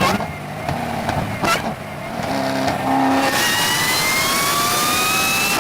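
Chevrolet Corvette C6 ZR1's supercharged 6.2-litre V8 running under acceleration; from about midway the sound grows louder and a high whine climbs steadily in pitch.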